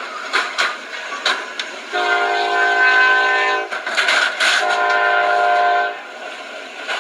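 Locomotive air horn sounding two blasts, a long chord of several tones followed by a slightly shorter one, over train noise with a few sharp clicks.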